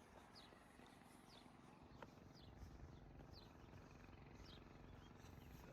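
A bird calling, repeating a short high chirp that falls in pitch about once a second, over a faint low background rumble.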